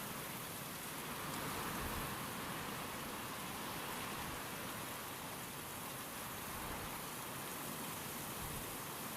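Steady rain with wind, an even hiss, swelling slightly about two seconds in.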